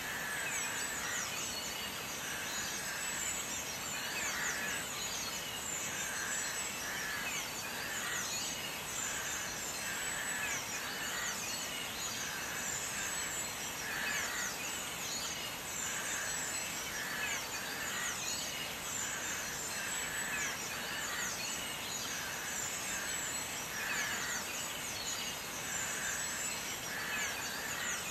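Steady background noise with birds chirping over and over.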